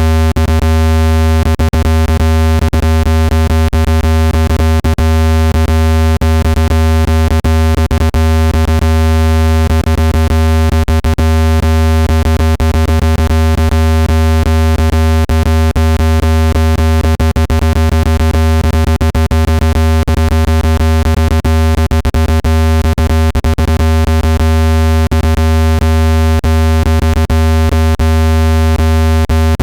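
Synthesized speaker-cleaning tone: a loud, steady low tone with many overtones above it, crackling with irregular clicks, made to shake dust out of a phone speaker.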